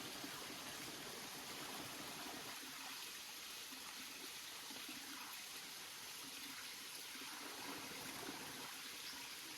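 Steady rush of flowing water, like a small stream.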